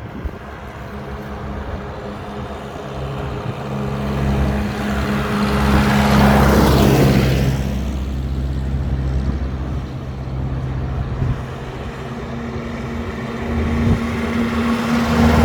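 Tractor engines running as tractors drive past one after another: one passes close about six to seven seconds in, and another comes up loud near the end.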